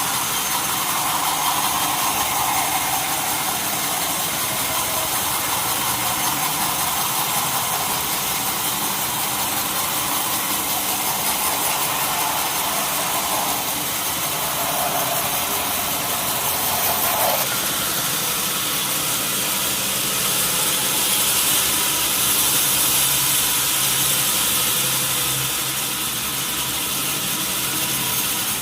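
Sawmill saw running steadily, cutting wood, with a tone that cuts off suddenly about seventeen seconds in.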